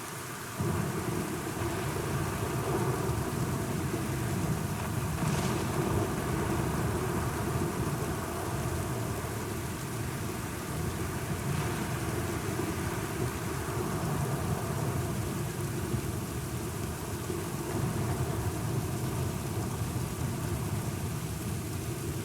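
Steady rain with a low, continuous rumble of thunder that swells in abruptly about half a second in.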